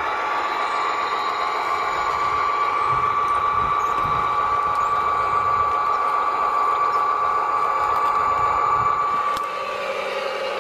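A radio-controlled model machine's small motor whining steadily at one pitch. About nine seconds in there is a click, after which it runs a little quieter at a lower pitch.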